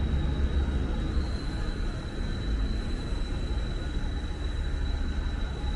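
City street ambience: a steady low traffic rumble under an even wash of noise, with a thin steady high whine.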